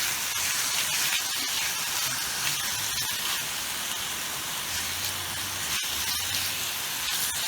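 Steady rushing hiss of a flowing mountain river, with a few sharp crackles scattered through it.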